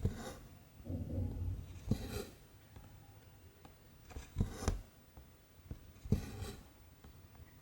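Cotton embroidery thread pulled through 14-count cross-stitch fabric, with the needle piercing it: about five short rasping pulls, spaced a second or two apart, with a few light taps and clicks between them.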